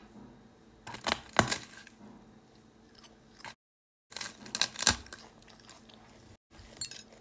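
A few sharp clicks and knocks, in clusters about a second in and again between four and five seconds in. The sound cuts out completely twice, once for about half a second.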